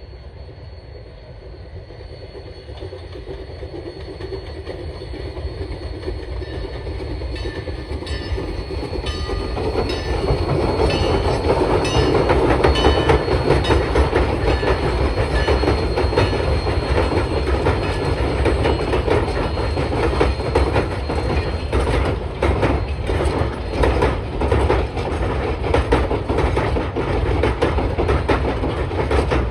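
Train pulled by U.S. 152 approaching and passing, growing steadily louder over the first ten seconds or so, then running close with rhythmic clickety-clack of the car wheels over the rail joints.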